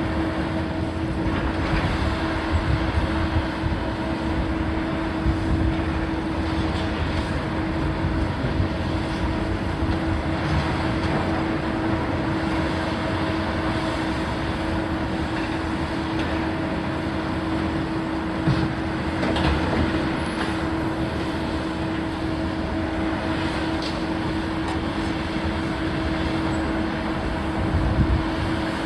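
Heavy machinery running steadily with a constant droning hum, with a brief knock about two-thirds of the way through and another near the end.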